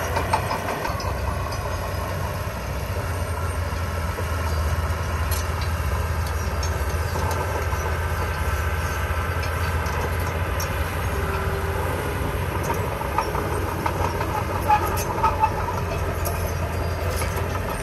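Heavy diesel construction machinery running steadily with a low, even engine drone, and a few short metallic clanks near the end.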